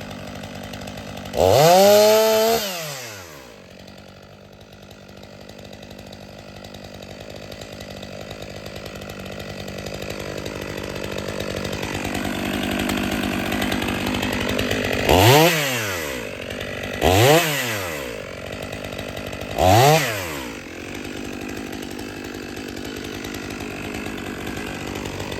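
Stihl 500i two-stroke chainsaw revving and running. There is one sharp rev about two seconds in, then a long stretch of lower running that slowly grows louder, then three quick revs a couple of seconds apart about two-thirds of the way through.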